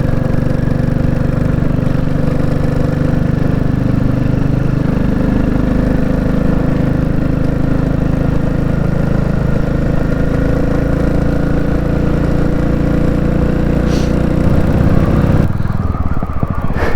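Royal Enfield Classic 350's single-cylinder engine running steadily under way. About a second and a half before the end the engine note drops and changes, as when the throttle is eased off.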